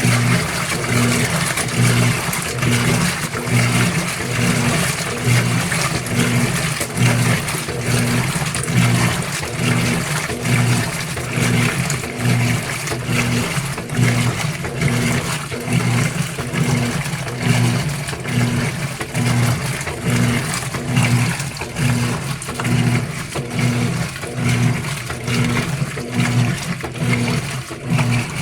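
GE Spacemaker GUD24ESSM1WW top-load washer agitating in the wash phase: the drive motor hums in strokes about once a second, with water sloshing in the tub.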